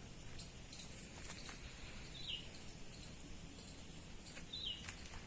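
Birds calling: a short falling call repeated about every two and a half seconds, with thin high chirps in between. A single sharp click comes about a second in.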